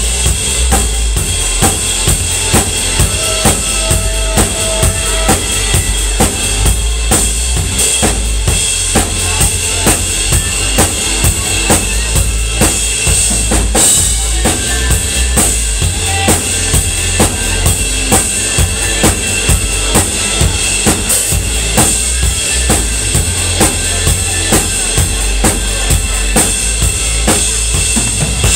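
Live rock band playing loud, the drum kit driving a steady beat of about two hits a second on bass drum and snare.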